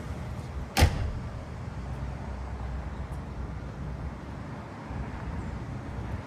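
The 1977 Cadillac Eldorado's steady low running rumble, with a single sharp knock about a second in.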